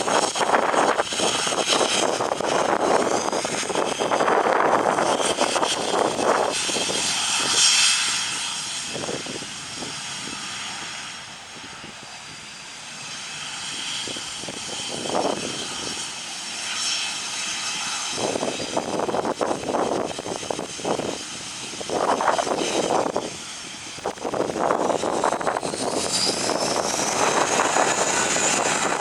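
Cessna Citation S/II business jet's twin turbofan engines running, a loud rushing noise with a high turbine whine over it. The loudness swells and dips, and the whine rises in pitch near the end.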